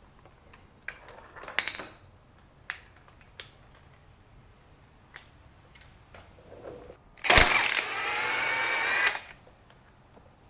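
Power tool running for about two seconds, starting abruptly about seven seconds in and stopping just as suddenly. Before it come light knocks and a short ringing clink of metal tools and parts.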